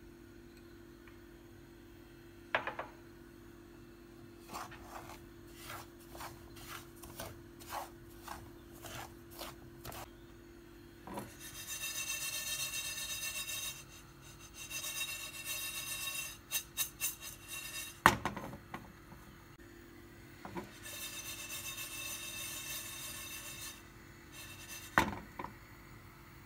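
Scraping and rubbing strokes, first short ones about twice a second, then longer rasping passes. A few sharper knocks fall among them, the loudest about two-thirds of the way in.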